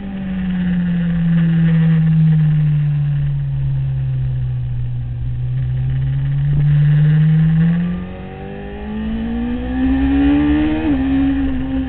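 Sport motorcycle engine heard from on board at track speed: its note sinks slowly while the bike is leaned through a corner, then climbs as the throttle opens, with one quick drop in pitch near the end like a gear change. Wind rumbles on the microphone throughout.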